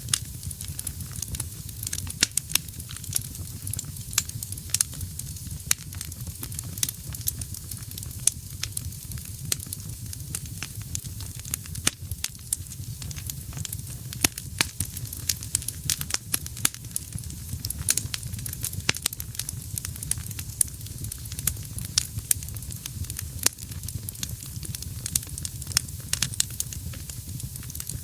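Wood fire burning in a fireplace: frequent, irregular sharp crackles and pops from the burning logs over a steady low rumble of the flames.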